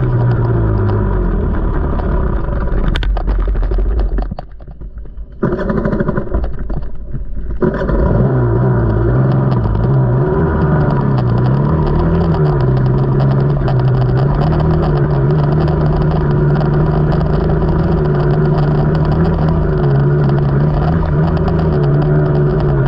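KTM 300 two-stroke dirt bike engine running on a trail, its pitch rising and falling with the throttle. About four seconds in, the throttle is rolled off twice, for a second or so each time; the engine note falls away, then picks back up.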